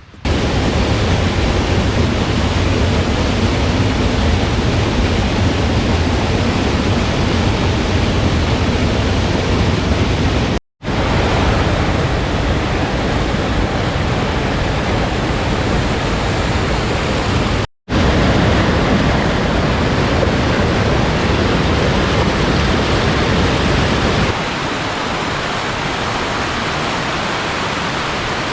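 Waterfall: a steady, loud rush of falling water. It cuts out abruptly twice and is quieter near the end.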